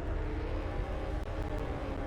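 Steady low vehicle engine rumble.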